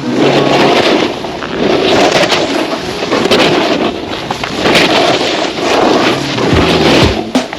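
Skis scraping and chattering on hard snow in quick repeated turns down a mogul run, the loud hissing swelling with each turn about once every second or so. There is heavy wind rush on the microphone.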